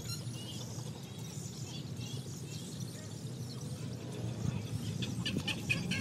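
Birds calling: scattered high chirps, then a quick run of short repeated calls, about four or five a second, starting about five seconds in, over a steady low rumble.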